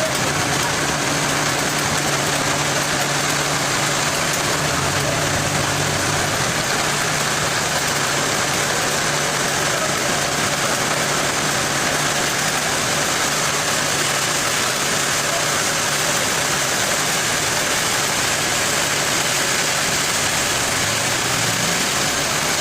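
An engine running steadily at idle, with its low hum strongest in the first half and then fading, under a constant loud rushing noise.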